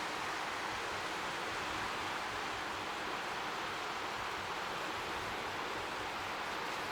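Strong sea wind making a steady, even hiss, with gentle waves lapping faintly beneath it.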